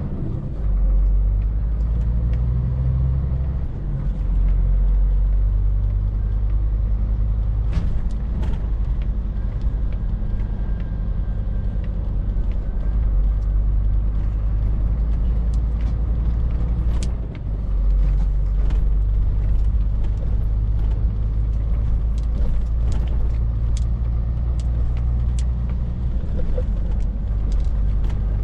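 Scania R450 lorry's diesel engine droning steadily while driving, a low rumble with brief dips in level about four and seventeen seconds in.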